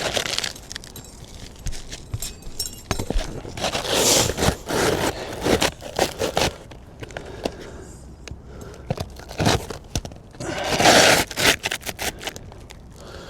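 Asphalt three-tab shingle scraping and crackling against the gritty shingles around it as it is slid back into place, in several irregular rasping bursts, the loudest about four and about eleven seconds in.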